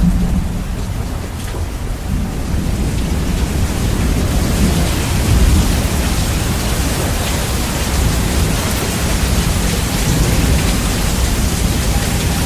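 Steady heavy rain with a continuous low thunder rumble, the bass heavily boosted. The rain's hiss grows brighter about three seconds in.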